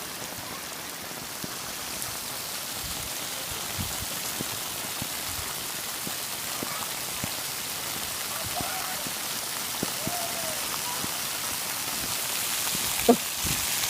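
Torrential rain pouring down steadily, a heavy downpour hissing on the surfaces around. A couple of faint distant calls come through in the second half, and a single sharp knock sounds near the end.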